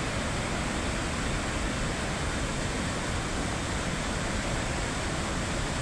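Waterfall rushing: a steady, dense noise of falling water.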